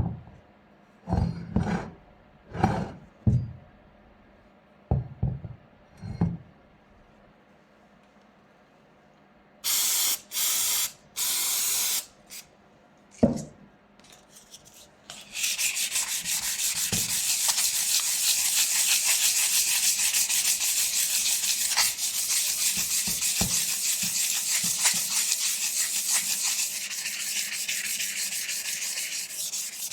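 Sanding on the metal of a brake caliper: a steady, dense scraping that starts about halfway through and keeps going. Before it come a few short knocks of parts being handled and three hissing bursts of about a second each.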